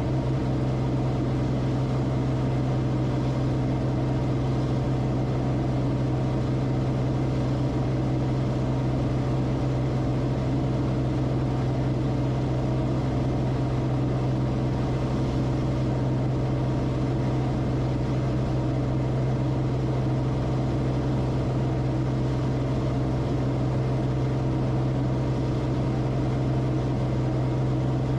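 Steady drone of the Cessna Corvalis TTX's turbocharged six-cylinder engine and propeller, a constant low hum with no change in pitch or level.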